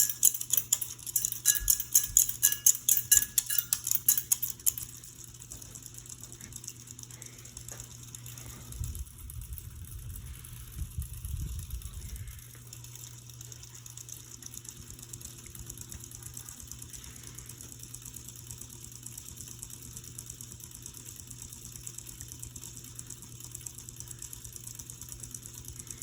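Westinghouse Xavier ceiling fan running on medium speed with a steady motor hum. For the first four or five seconds a fast run of ringing metallic clinks sounds over it, and a low rumble swells and fades about nine to twelve seconds in.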